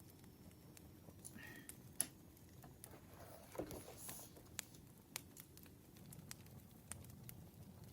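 Faint campfire crackling: sparse sharp pops and ticks, with a louder pop about two seconds in and a short rustling flare around the middle.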